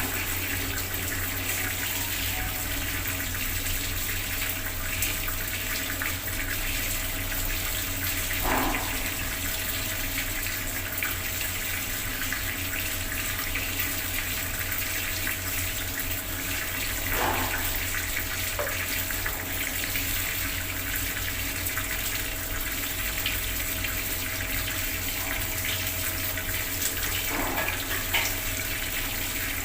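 Bathroom water tap running steadily, its stream splashing down, with a brief louder swell three times, about every nine seconds.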